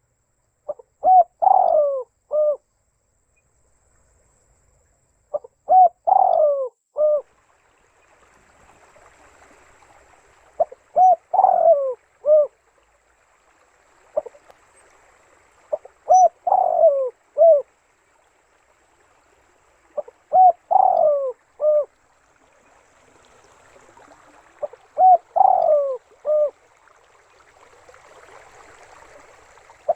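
Spotted dove (tekukur) cooing: six short phrases of three or four coos each, repeated about every four to five seconds.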